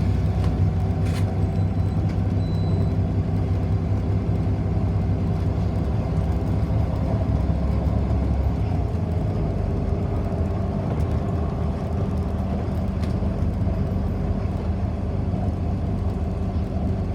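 City bus running between stops, heard from inside the passenger cabin: a steady low engine drone with road noise, easing a little about halfway through.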